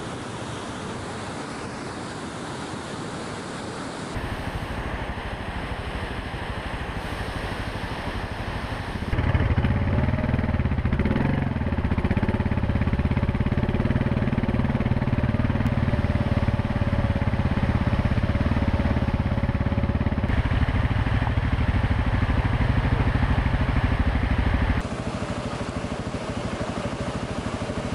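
Single-cylinder Husqvarna TR650 Terra enduro motorcycle engine running on a steep, loose gravel mountain track; it is loudest through the long middle stretch. Steady rushing of a whitewater river can be heard at the start and again near the end.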